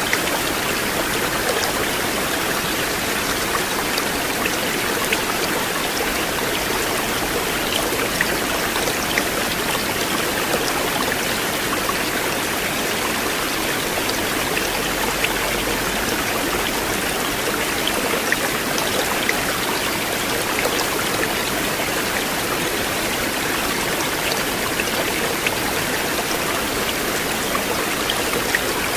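A river flowing, a steady even rush of water sprinkled with small splashes.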